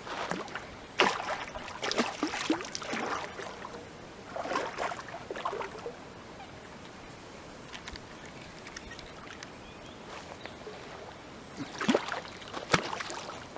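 Water splashing and sloshing in several short irregular bouts from a large hooked fish thrashing at the surface as it is landed, with a quieter stretch in the middle.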